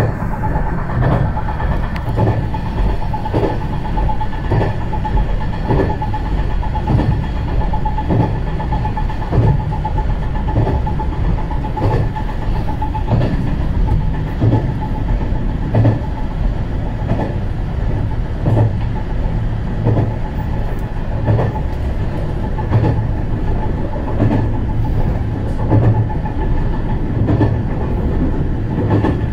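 Diesel railcar running at speed, heard from on board: a steady rumble with a constant whine, and wheels clacking over rail joints in a regular rhythm a little faster than once a second.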